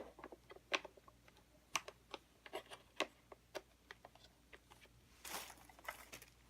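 Light plastic clicks and taps, irregular and scattered, as the main brush roll is fitted back into a Eufy RoboVac 11 robot vacuum, with a brief rustle about five seconds in.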